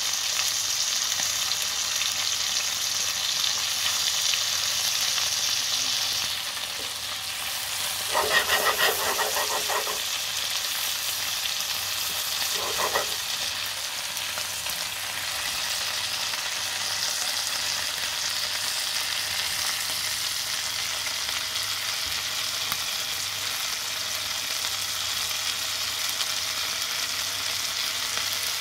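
Floured pieces of liver sizzling in hot oil in a frying pan. Tongs turning the pieces clatter against the pan for about two seconds some eight seconds in, and once more briefly a few seconds later.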